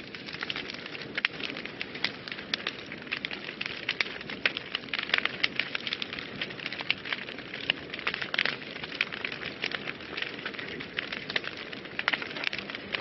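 Wood fire burning in a fireplace, crackling with many irregular sharp pops over a steady hiss.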